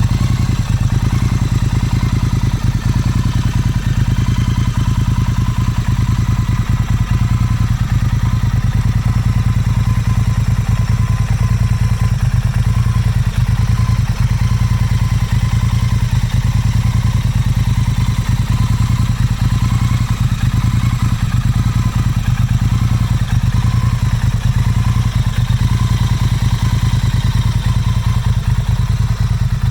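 Motorcycle engine idling steadily, its pitch and level unchanged throughout.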